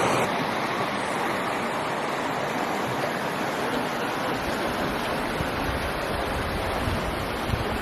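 Steady rush of water from a waterfall or creek, an even hiss without a break, with some low rumbling in the second half.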